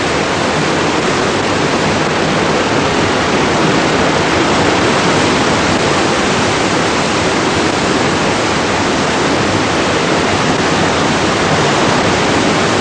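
Waterfall: falling water making a loud, steady, even noise with no change.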